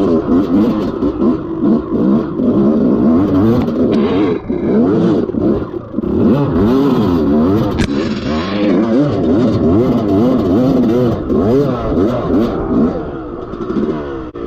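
Dirt bike engine revving hard and unevenly, the throttle opened and shut again and again in quick rises and falls of pitch, as a rider works up a steep rutted hill climb.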